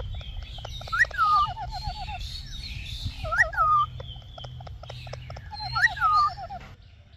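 Indian ringneck parrot calling: a sharp rising-then-falling whistle joined to a quick run of wavering chatter notes, repeated three times at an even pace, over a low steady hum that stops shortly before the end.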